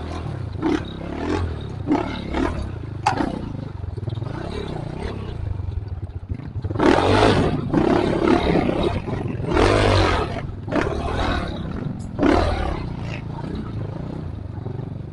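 Trail motorcycle engine revving unevenly over rough offroad ground, with two louder surges about seven and ten seconds in.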